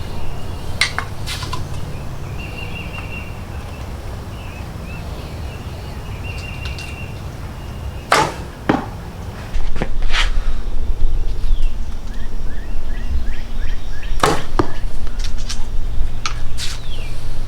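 Arrows shot from a hand-made yew selfbow: a sharp snap of the string, then the arrow striking about half a second later, heard a few times.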